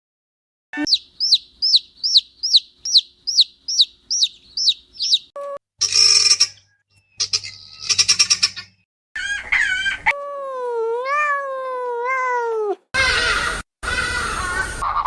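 A string of short farm-bird calls cut one after another: first about ten high, falling peeps at roughly two a second, then a few brief harsh calls, a long wavering call in the middle, and more harsh calls near the end.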